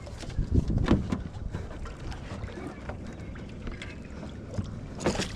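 Irregular knocks and bumps in a small fishing boat, with wind on the microphone, while a big striped bass is played close to the boat. A louder burst of rushing noise comes near the end.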